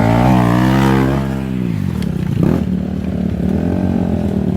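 Motorcycle engine running loudly with a wavering pitch, then easing off about a second and a half in and carrying on at a lower, steadier note.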